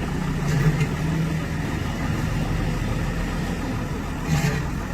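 Truck engine idling with a steady low hum. Two short knocks come through it, about half a second in and again near the end.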